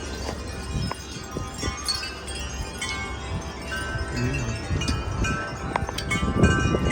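Wind chimes ringing irregularly as strong wind knocks them, many overlapping metallic tones. Low wind rumble on the microphone underneath, gusting up near the end.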